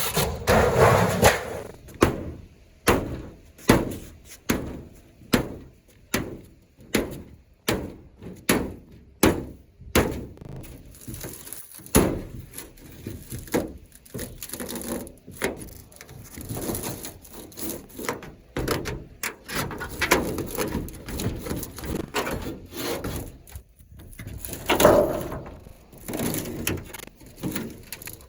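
Wooden roof timbers being struck and worked apart: a steady run of sharp knocks, a little more than one a second, like hammer blows, for about ten seconds, then more irregular knocks and scraping, with one louder knock near the end.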